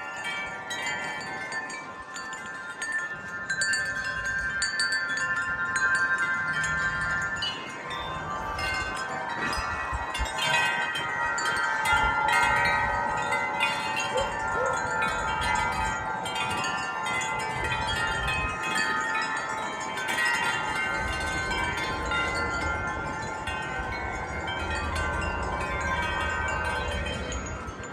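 Several wind chimes ringing in gusting wind, many overlapping tuned tones struck again and again.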